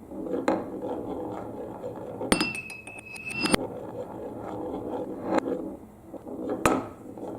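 Marbles rolling and clattering down a marble run track, with sharp clicks as they strike the pieces. About two seconds in, two strong clicks a little over a second apart bracket a clear, steady ringing tone.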